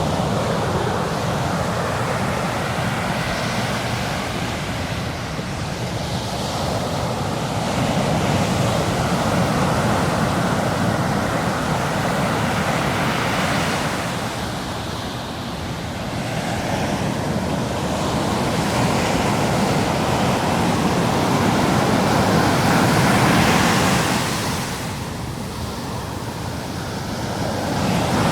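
Ocean waves breaking and washing in over the shore, rising and falling in slow swells every several seconds, with wind on the microphone.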